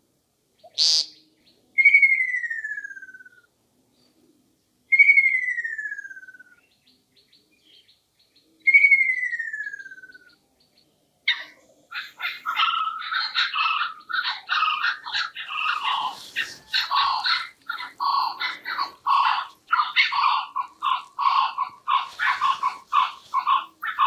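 A short buzzy peent call from an American woodcock about a second in, then three long whistled calls sliding downward in pitch, a few seconds apart, typical of a ruddy kingfisher. From about halfway, a kookaburra's loud, rapid cackling chorus runs on.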